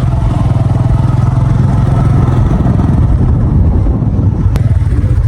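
Motorcycle engine running steadily under way, a loud low rumble with a rapid firing pulse, heard from on board.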